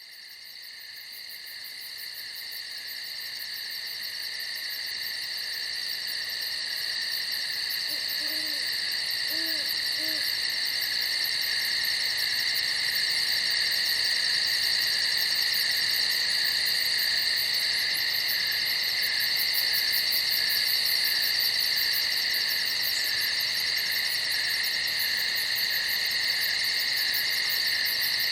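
Crickets calling at night in a steady, continuous high-pitched trilling chorus that fades in over the first ten seconds. A few faint low notes sound about eight to ten seconds in.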